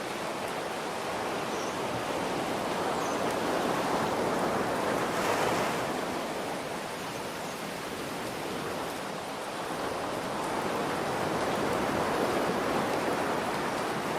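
Ocean waves washing in over a steady hiss of rain, swelling twice, around five and twelve seconds in.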